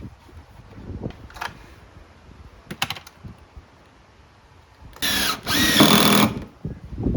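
A power drill driving a screw into timber formwork in two short runs about five seconds in. Before it there is only wind rumble and a few light taps.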